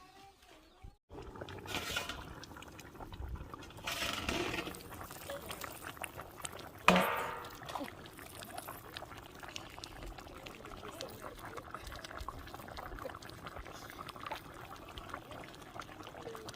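Liquid being poured and splashing, with a single sharp knock about seven seconds in.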